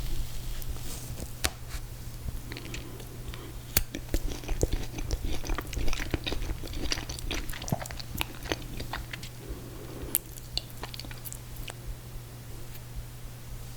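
Close-miked eating of ice cream cake: wet chewing with many quick mouth clicks and smacks, busiest in the middle and thinning toward the end. A steady low hum runs underneath.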